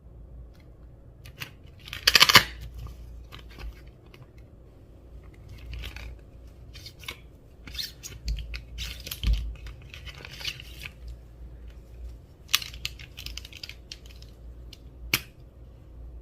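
Slime being worked by hand, giving irregular sticky crackles and squishes, with a louder crackling burst about two seconds in and a sharp click near the end.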